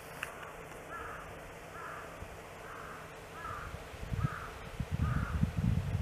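A bird calls six times at an even pace, a little faster than once a second, and stops about five seconds in. A low rumbling noise on the microphone grows over the last two seconds.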